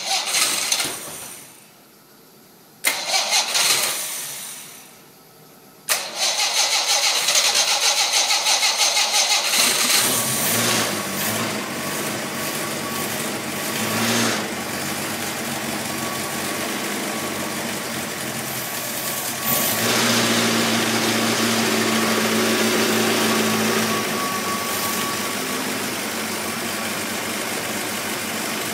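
Facel Vega Facellia engine, with a freshly overhauled bottom end, being started on a test bench: two short bursts that die away, then about six seconds in it catches and keeps running, unevenly at first, then settling into steady running. Its speed rises for a few seconds around two-thirds of the way through before dropping back.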